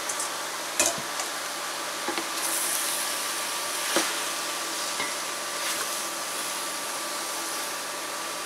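Sliced mushrooms sizzling as they sauté in a stainless steel pot, stirred with a spatula, with a few sharp clinks and knocks of the spatula and the metal bowl against the pot.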